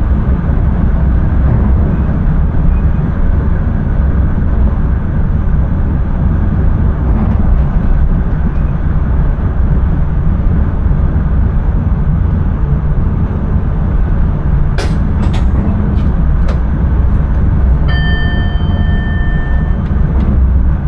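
Intercity train running on the line, heard from the driver's cab: a steady low rumble, with a few sharp clicks about three-quarters of the way through and a steady beep-like tone of about two seconds near the end.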